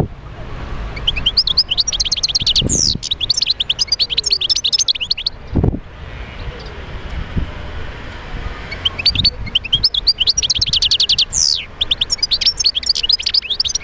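European goldfinch singing two long, fast twittering phrases of rapid trills, quick repeated high notes and downward sweeps, with a pause of a few seconds between them.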